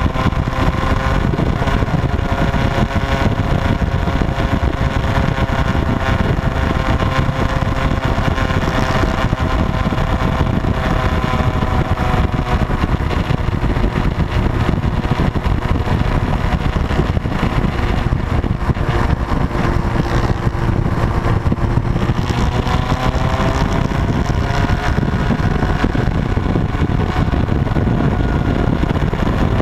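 Motorcycle engine running steadily, its pitch drifting slowly down and back up, over a dense low rumble.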